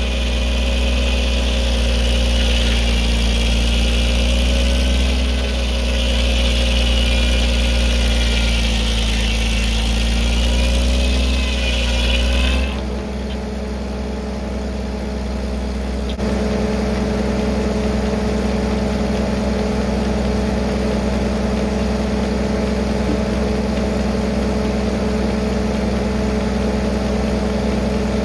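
1952 Farmall H's four-cylinder engine running steadily under work as it powers a sawmill. A high wavering whine sits over it for the first dozen seconds and stops abruptly about halfway through along with much of the deep rumble; a few seconds later the sound steps up again and runs on steadily.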